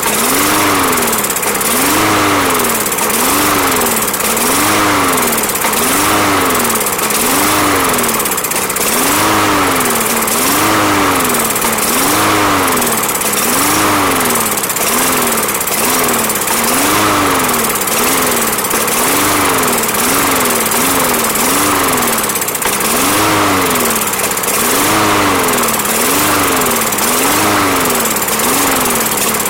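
Briggs & Stratton lawn mower engine running on its own and surging, its speed rising and falling regularly about every one and a half seconds. The hunting is the sign of a dirty carburetor that fresh gas and Seafoam have not cured.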